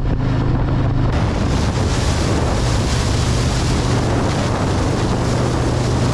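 Harley-Davidson motorcycle riding at speed: strong wind rushing over the microphone on top of the steady drone of its V-twin engine. The wind noise grows louder about a second in.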